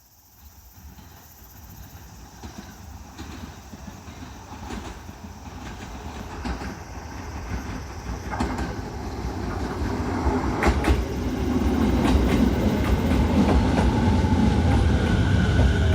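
Electric commuter train, a JR East 209-series set, approaching and pulling into the station. It grows steadily louder throughout, with wheels clacking over rail joints and a rising rumble.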